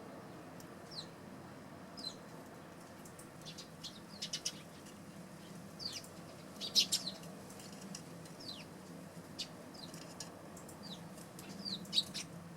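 Eurasian tree sparrows chirping: short, downward-sliding chirps scattered irregularly, with a denser flurry about four seconds in and again around seven seconds.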